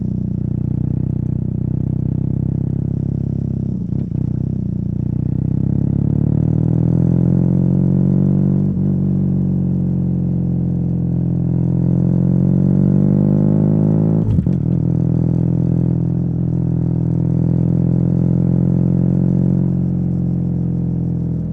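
BMW R nineT's boxer twin running under way through a Competition Werkes slip-on exhaust, holding fairly steady revs with the pitch rising and easing gently. Three brief clicks cut through it.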